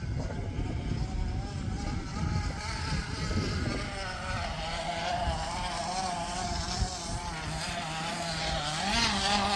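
Plastic bottle flapping against the spokes of a bicycle's back wheel, making a buzzing, motorbike-like sound whose pitch wavers with the wheel's speed, over wind rumble on the microphone. It grows louder and higher near the end.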